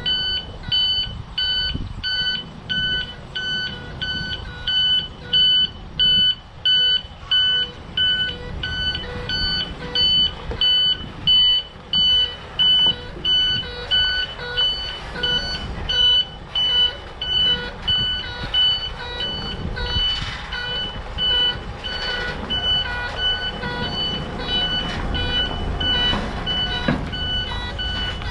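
Container truck's reversing alarm beeping steadily, about one and a half beeps a second, over the low rumble of the truck's engine as it backs up.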